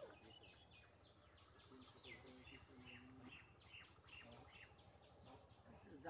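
Faint birds chirping in short, quick repeated calls, with faint voices in the background.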